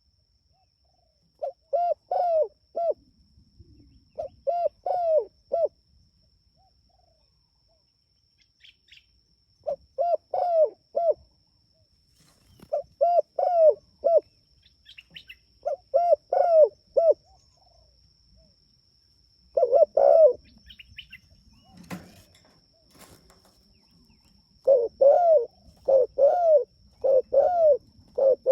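Spotted dove (tekukur) cooing: short phrases of three or four low coos, repeated every few seconds with pauses between, and faint high chirps in some of the gaps.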